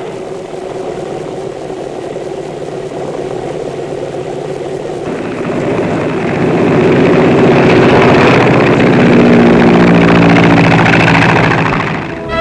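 Piper L-4 light plane's propeller engine running steadily. It gets abruptly louder about five seconds in and keeps building to a full-power run, as for a takeoff, then fades out just before the end.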